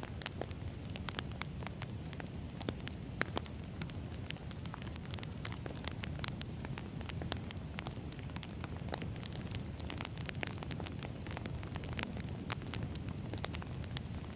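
Wood fire burning: a steady low rumble with frequent irregular crackles and pops of the burning logs.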